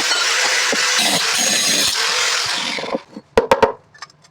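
Power tool cutting through an exhaust pipe, a steady loud grinding that stops about three seconds in, followed by a few sharp knocks.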